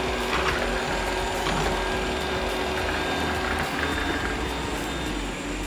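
Shark RV1500ZXUS robot vacuum running in cleaning mode, a steady motor and brush whir with faint mechanical ticking. Its side wheels now work after the clogged wheel-motor encoders were cleaned.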